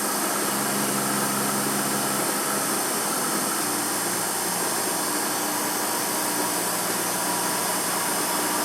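Emco F1 CNC milling machine running a 1.5 mm carbide centre drill to spot the engine fixing holes in a cast aluminium pan: a steady hiss and hum from the spindle and drives. The pitch of the hum changes about three and a half seconds in.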